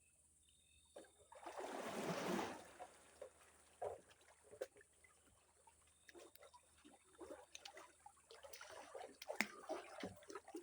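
Water splashing as a person moves about in the water: one larger splash about a second and a half in, then small splashes and drips, busier near the end.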